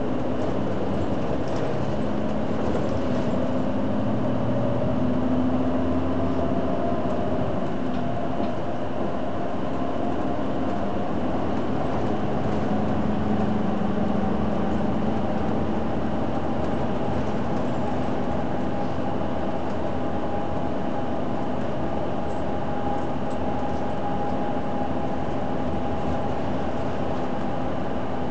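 Hino Blue Ribbon City Hybrid bus driving along, with its drivetrain humming and whining over steady road noise. The whine climbs slowly in pitch over the first several seconds as the bus gathers speed, then holds fairly even.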